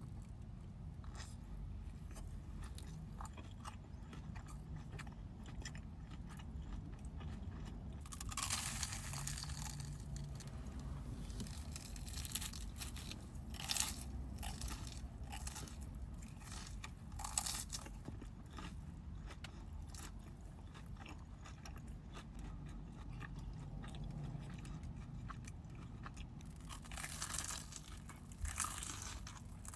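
A person biting into a crispy Korean corn dog and chewing, with crunchy bites. The loudest crunches come about eight seconds in, twice more mid-way, and again near the end.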